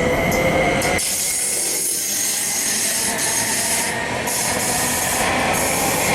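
Train running past close by: steady wheel and rail noise with thin, high squealing tones from the wheels. About a second in, the deep rumble falls away and a higher hiss takes over.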